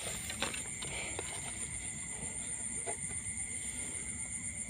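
Steady chorus of insects, crickets among them: several continuous high-pitched tones with a few faint knocks.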